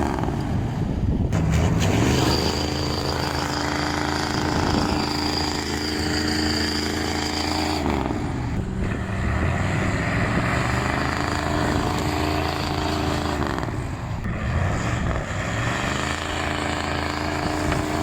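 Diesel truck engine working hard under load, its revs dropping sharply three times and climbing back each time, as if it is lugging down and recovering during a pull.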